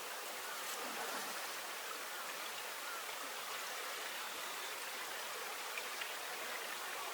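Running water from a stream or river, a steady even rush with a few faint small splashes.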